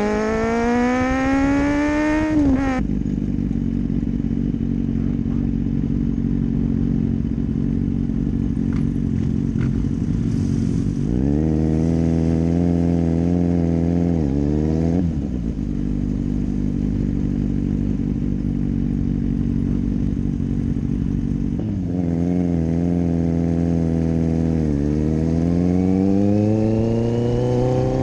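Kawasaki Z800's inline-four engine running under way. It revs up at the start, drops suddenly to a lower steady note a little under three seconds in, and changes pitch again around eleven and fifteen seconds. Near the end it revs up steadily once more.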